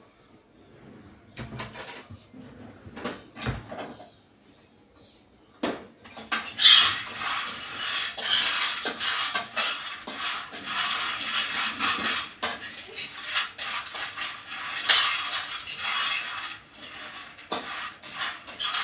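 Groundnuts rattling and scraping in a pan as they are stirred with a spoon, a dense clatter of many small clicks that starts abruptly about six seconds in. A few separate knocks of pan or utensil come before it.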